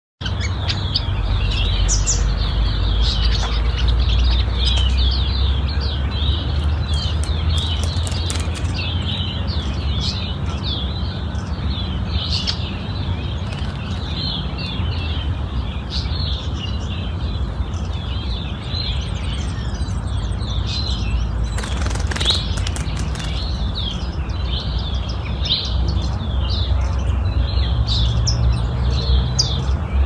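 Birds chirping in a dense, rapid run of short high notes, over a steady low rumble.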